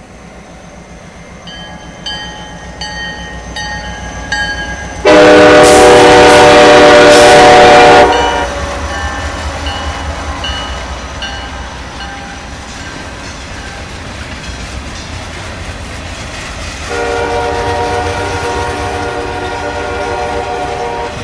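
CSX freight train passing close. The locomotive's air horn sounds a loud blast of about three seconds that overloads the microphone. The diesel engines and wheels then rumble past, and the horn sounds again, less loudly, near the end.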